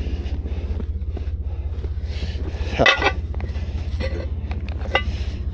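The Blazer's engine running at low speed while driving, a steady low rumble with a regular beat, with scattered light clinks and rattles over it.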